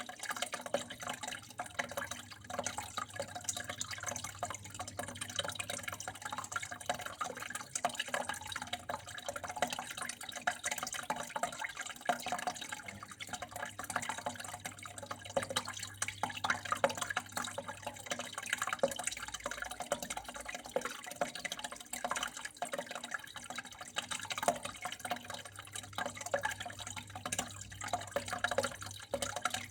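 Water flowing and trickling steadily, a dense run of small splashes and drips with no pause.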